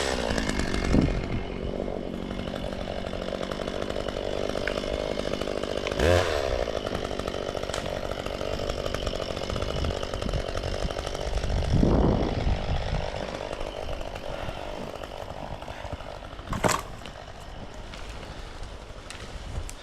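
Chainsaw engine running steadily, revved up briefly a few times in the first half, with a sharp knock near the end.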